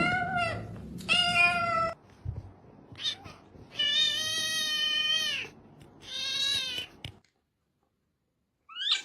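Cat meowing repeatedly, about five meows, the middle one long and drawn out, then a short rising meow near the end.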